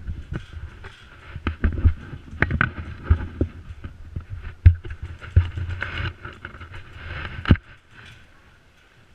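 Irregular thumps and rustling of footsteps and moving gear, with a few sharper knocks, dying away about seven and a half seconds in.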